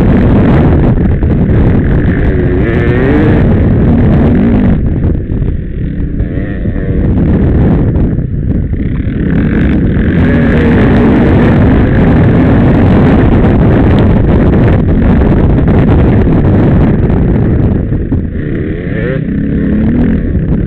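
Dirt bike engine heard up close from the bike itself, its revs rising and falling over and over as the throttle is worked, easing off briefly a few times.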